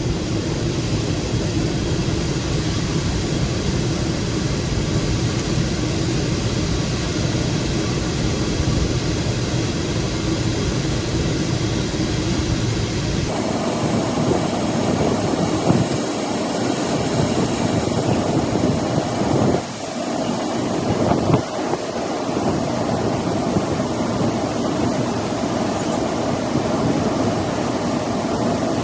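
Heavy machinery running steadily with a low hum, the sound changing abruptly about 13 seconds in.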